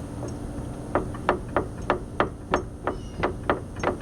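Front lower A-arm of a 2015 Arctic Cat Wildcat Sport knocking as the wheel is rocked in and out by hand, about three sharp knocks a second from about a second in. The arm slides back and forth on its bolt: the control-arm bushings are worn and loose.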